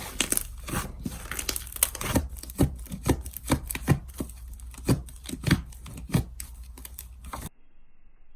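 Hands squeezing and poking slime, making a run of sticky pops and crackles about twice a second; the sound cuts off suddenly near the end.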